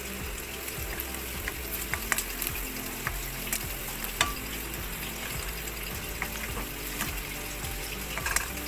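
Chopped garlic and onion sizzling in hot oil in a wok as a spatula stirs them, with a steady frying hiss and scattered sharp clicks of the spatula scraping and tapping the pan.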